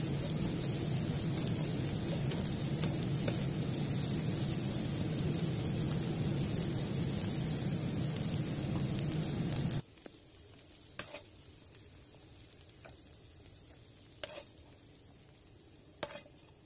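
Fried rice sizzling steadily as it is stir-fried in a pan. The sizzle cuts off suddenly about ten seconds in, leaving a quieter stretch with a few faint short clicks.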